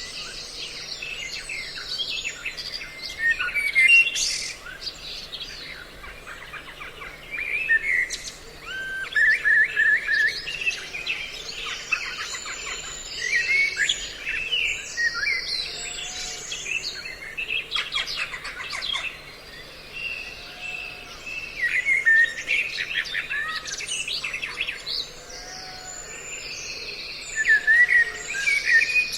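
A dense mix of several songbird species' chirps and short whistled calls, overlapping in quick bursts. It is a bird-trapping lure recording that layers calls of several species together to draw birds in.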